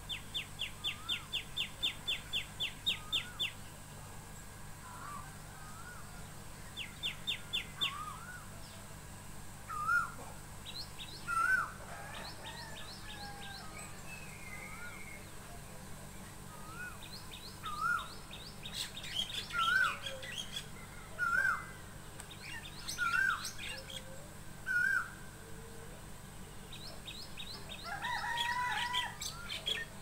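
Several birds calling. A fast run of high, evenly spaced notes comes at the start and again briefly a few seconds later. A short, lower, hooked call repeats every second or two through the middle, and a denser burst of chattering calls comes near the end.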